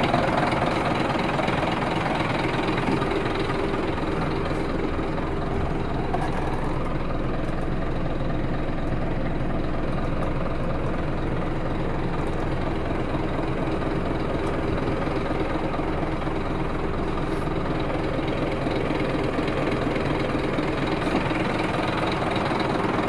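Scania P230 truck's diesel engine idling steadily.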